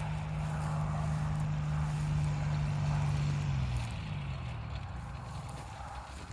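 Paramotor engine running steadily, then throttled back about three and a half seconds in, its pitch sliding down and fading as it slows for the landing approach.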